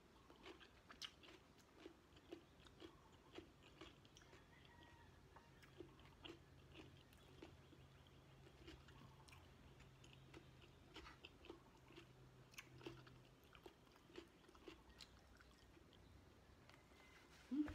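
A person chewing food with an open-mouthed, wet smacking rhythm of soft clicks about twice a second, faint throughout. A brief, louder sound is heard near the end.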